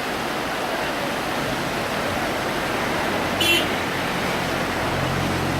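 Steady rush of river rapids, with a low steady hum joining about a third of the way in and one short high-pitched cry about three and a half seconds in.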